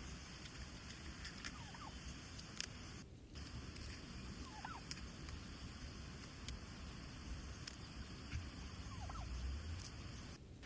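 Faint short bird calls, three of them a few seconds apart, over a low steady rumble with scattered light clicks.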